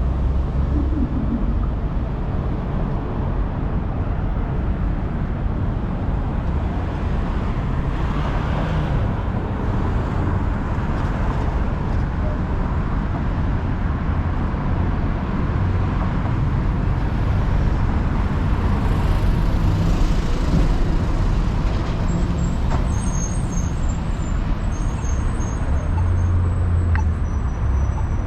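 City street traffic: motor vehicles and buses running past in a steady low rumble, with faint high-pitched squeals in the last few seconds.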